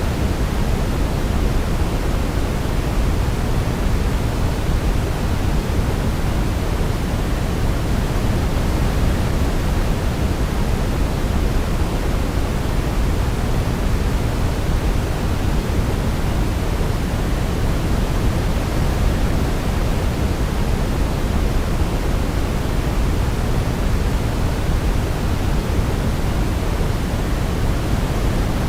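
Steady, unchanging synthetic sleep noise: a deep, even hiss weighted toward the low end, like pink noise.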